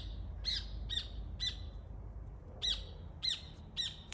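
Rufous hornero calling: a run of loud, sharp, strident notes about two a second, a pause of about a second and a half, then another run.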